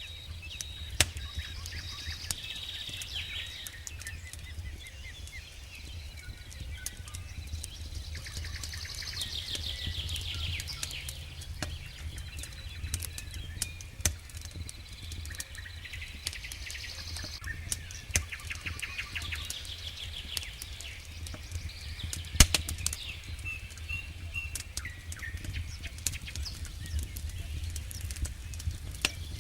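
Wood fire crackling, with irregular snaps and a few louder pops. Behind it a bird sings repeated trilled phrases every few seconds.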